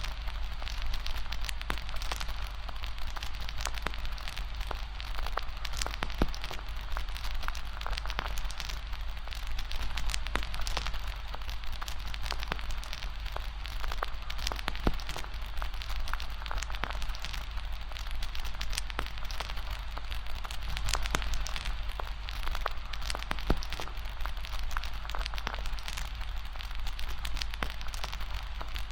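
Wood fire crackling: an irregular stream of small pops and snaps over a steady hiss, with a steady low rumble underneath.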